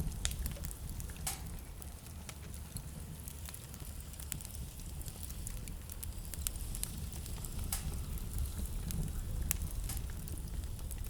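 Wood fire in a fireplace crackling, with irregular sharp pops scattered throughout over a steady low rumble.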